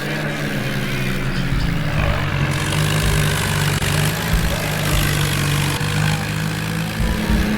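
Diesel tractor engine running steadily, a low hum holding one pitch.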